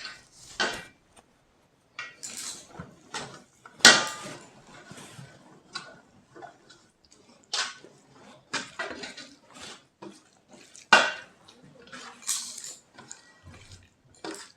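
Eating from a plate: irregular clinks and scrapes on the plate as rice, dal and pakoras are picked up, with soft chewing sounds between them.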